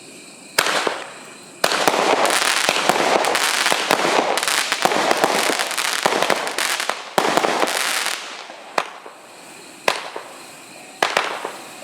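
64-shot consumer firework battery (cake) firing: sharp launch reports, then long stretches of dense crackling bursts, then single bangs about once a second near the end.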